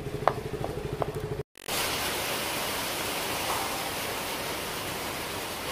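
Steady hiss of heavy rain, starting after an abrupt cut about a second and a half in. Before the cut, a pulsing vehicle hum with a few sharp clicks.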